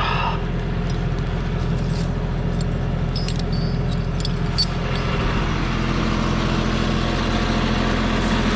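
Tractor engine running steadily, picking up a little in pitch and level about halfway through as it takes on more load. A few light clinks sound in the first half.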